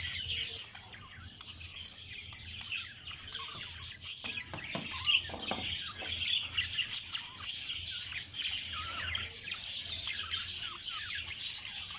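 A flock of budgerigars chattering, with many short chirps and warbles overlapping continuously over a faint steady low hum.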